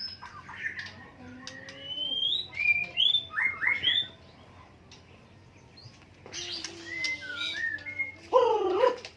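White-rumped shama singing in varied whistled phrases with sweeping rising and falling notes. It pauses briefly midway, then resumes with a louder, lower phrase near the end.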